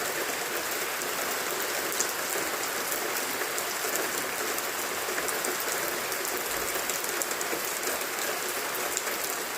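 Steady rain falling, with many fine patters of drops hitting a surface.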